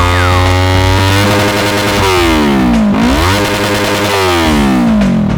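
Motorcycle engine revving, its pitch sweeping down and up again several times as it slows and accelerates.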